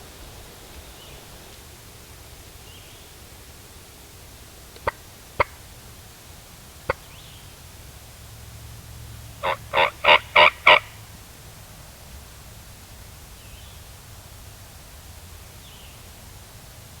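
Wild turkey tom gobbling: a loud, rapid rattling run of about six notes lasting just over a second, about ten seconds in. Three short, sharp turkey calls come a few seconds before it.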